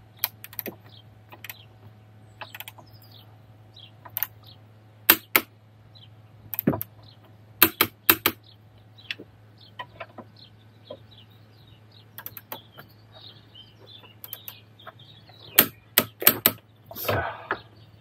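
Scattered sharp metallic clicks and clinks of hand tools, a ratchet and torque wrench, as the sway-bar end-link nuts are tightened to torque, some clicks coming in quick pairs, with a short scraping rustle near the end. A faint steady hum runs underneath.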